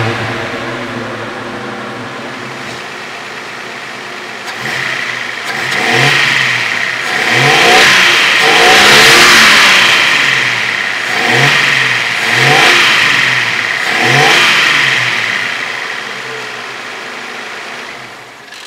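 Datsun 910's stock L20A inline-six running on LPG, revved in a series of free-revving blips. It falls back to idle at the start, rises into a longer rev about eight seconds in, then gives several quick blips before settling back toward idle near the end.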